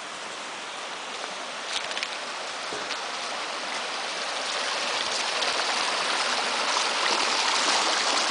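Small brook's water rushing and splashing down over stones into a plunge pool, a steady rushing sound that grows gradually louder.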